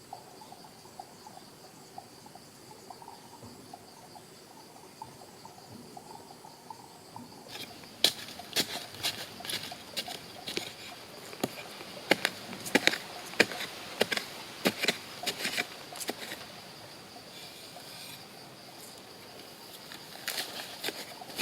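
Insects buzzing steadily in a high drone. From about a third of the way in, and again near the end, it is overlaid by a run of sharp clicks and cracks.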